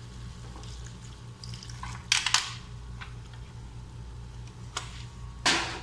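Chicken liver adobo in soy sauce and vinegar, simmering quietly in a pan over a low steady hum. There are a few sharp clicks of kitchen utensils: two close together about two seconds in, and a longer scrape near the end.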